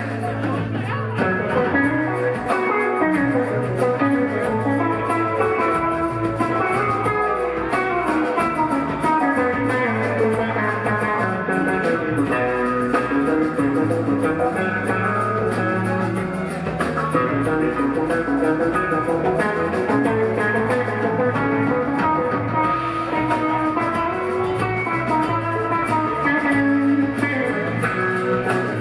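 Live rock band playing an instrumental jam: lead electric guitar weaving over bass guitar and the rest of the band, with no singing.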